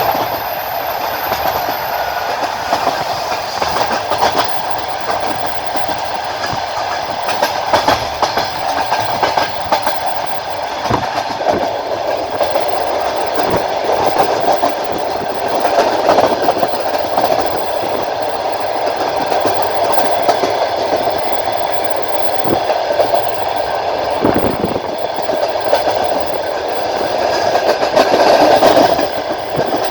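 Moving passenger train heard from inside the carriage: a steady rumble of the carriage on the track, with irregular clacks of the wheels over rail joints.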